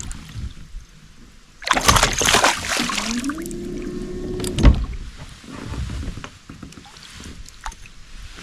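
Hooked pike splashing and thrashing at the side of a kayak as it is landed: a burst of splashing about two seconds in, a short rising tone, then a sharp thud against the hull near the middle.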